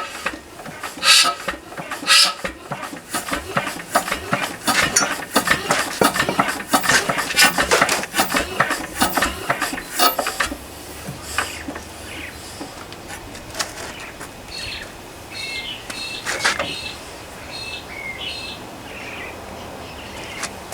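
A rapid, irregular clatter of clicks and knocks for about ten seconds, then quieter, with birds chirping.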